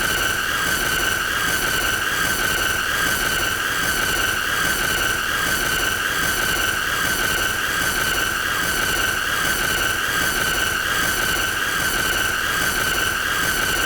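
A loud, steady high-pitched squealing tone held without a break, with a faint regular flutter: a looped annoying sound effect.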